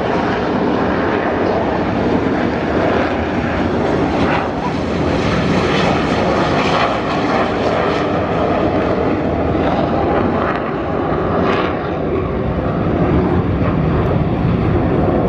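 Several Red Arrows BAE Hawk T1 jets, each with a single Adour turbofan, taking off at high power, a loud, steady jet noise.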